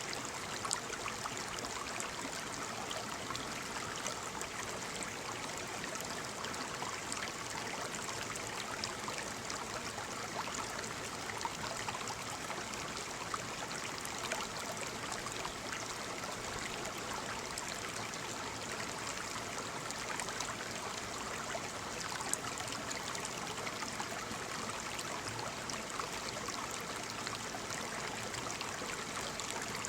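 Waterfall: water falling and splashing in a steady rush, with small splashes crackling through it.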